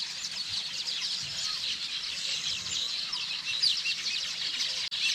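A dense chorus of many small birds chirping at once, a continuous chatter that cuts out for an instant near the end.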